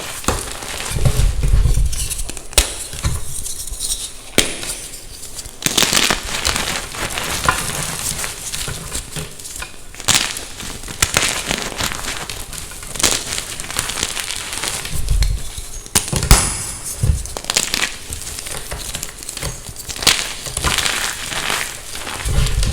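Gym chalk being crushed and crumbled at close range: crisp crunching and crackling in bursts, with scattered sharp snaps and a few low thuds.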